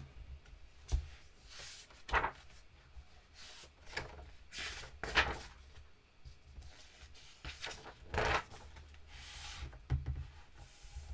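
A picture book being handled and its pages turned: a series of short, soft paper rustles and light knocks.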